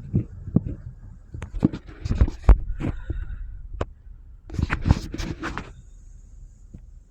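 Gusting storm wind buffeting the microphone as a low rumble, with two clusters of sharp knocks and rattles, the first in about the first two and a half seconds and the second about halfway through.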